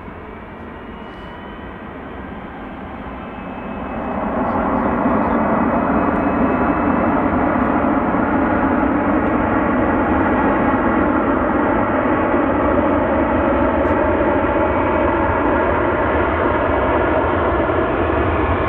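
Airbus A350 jet engines at departure, a steady jet roar with whining tones that swells sharply about four seconds in and then holds loud.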